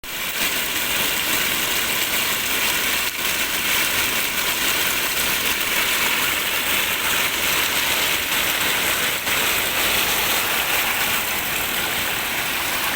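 Steady, dense rush of water, the sound of heavy rain or fast-flowing floodwater, unchanging throughout.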